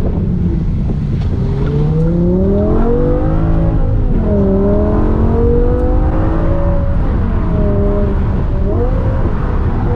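BMW E60 M5's 5.0-litre V10 engine revving hard under full throttle, its pitch climbing for about two seconds, then dropping sharply around the four-second mark before climbing again. It drops once more near seven seconds and briefly near nine, with a heavy low rumble throughout.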